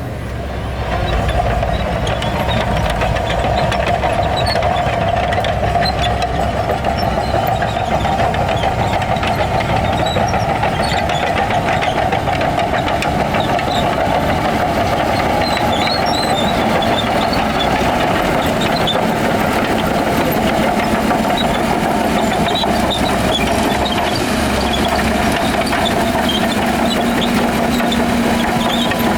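Heavy diesel earthmoving machinery running steadily, a continuous loud engine drone.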